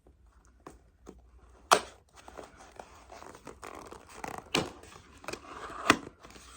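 Close-up handling of unboxing packaging: rustling and tearing, broken by three sharp clicks or taps.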